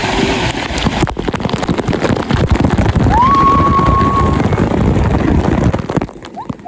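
Cold water pouring and splashing onto a phone in a waterproof case: a loud rushing, buffeting noise that cuts off suddenly near the end. About halfway through, a brief high squeal rises and then holds.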